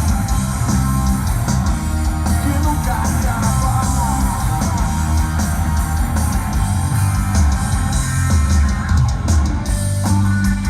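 Live rock band playing loud: electric guitar over heavy bass and drums.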